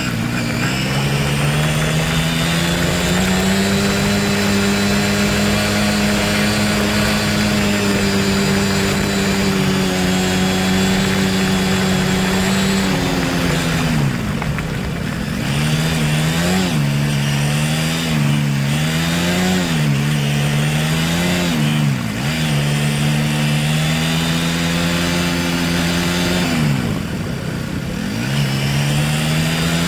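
Honda Grom's single-cylinder engine running under way. It holds a steady pitch for the first dozen seconds, then revs up and down, with the pitch falling away three times as the throttle is rolled off and climbing back again. A steady rushing noise runs under it.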